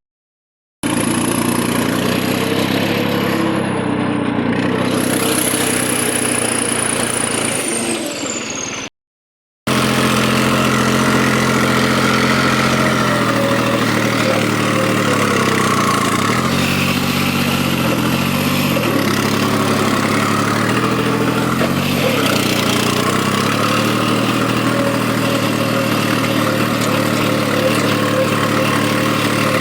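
New Holland 3630 tractor engine running steadily, with a high whine that falls away about eight seconds in. After a short break, the engine note dips briefly and recovers a few times, as under changing load with the 20-disc harrow.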